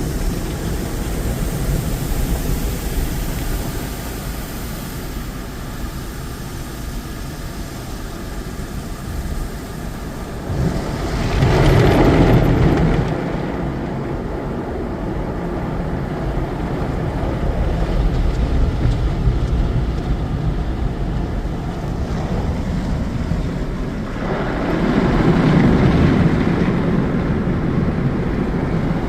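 Automatic car wash tunnel equipment running: a steady rushing of spray and machinery, with two louder swells about 11 seconds in and again about 25 seconds in.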